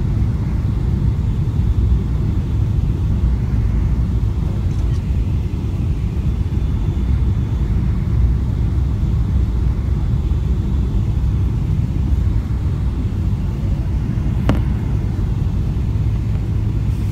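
Steady low rumble of a Boeing 777 during landing, with one sharp click about 14 seconds in.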